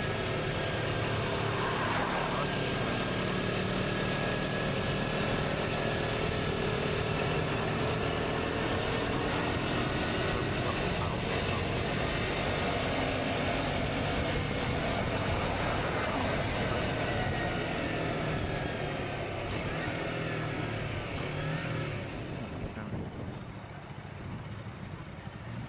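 KTM Duke 125 single-cylinder engine with an Akrapovic exhaust running under way, its pitch rising and falling through the gears, under steady wind rush on the microphone. Both the engine and the wind get quieter about 22 seconds in as the bike slows.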